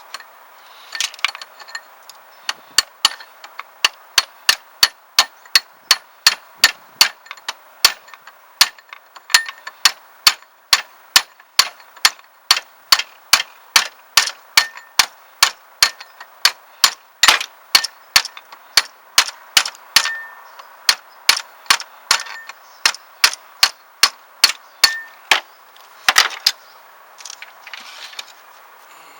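Rubber mallet striking the back of a screwdriver over and over, about two blows a second, driving the A/C compressor's clutch pulley off its shaft; each blow gives a short metallic clink. The blows stop a few seconds before the end.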